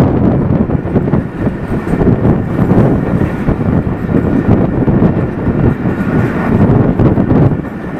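Jaffar Express passenger train rushing past close by: a loud, continuous rumble and clatter of steel wheels on the rails, easing a little near the end.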